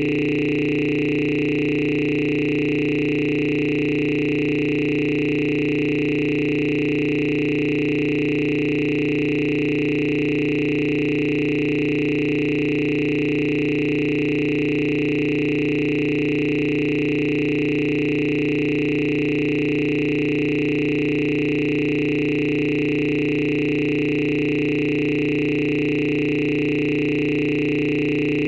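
A steady electronic drone: several constant tones, low and high, held without any change.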